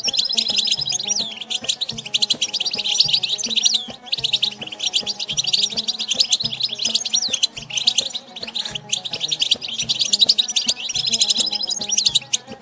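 European goldfinch twittering in a fast, continuous stream of high chattering notes, with short breaks about four and nine seconds in, over background music.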